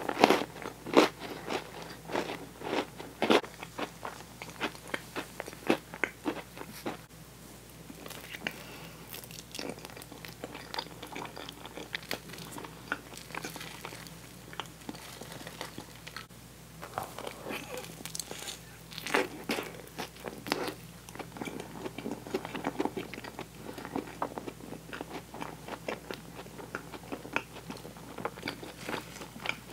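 Close-miked chewing of gooey toasted marshmallow, a run of many short, wet, sticky mouth clicks. The clicks are densest in the first few seconds and again about two-thirds of the way through.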